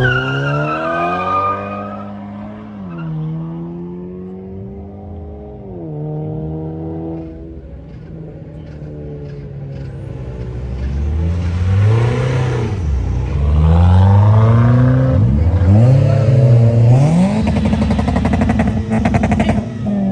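A car engine's pitch falls away and runs low and fairly steady, then from about halfway it is revved hard in a string of quick bursts, rising and falling, and held high near the end.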